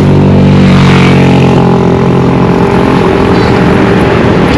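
A motor vehicle's engine running close by, loudest in the first second or two and then fading as it passes.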